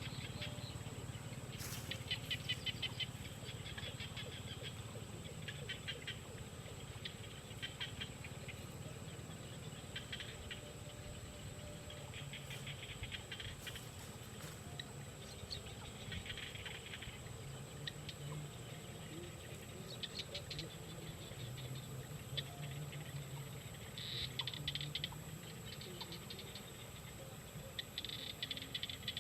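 Small birds chirping in short bursts of very rapid, high chirps that repeat every second or two, over a faint steady high whine.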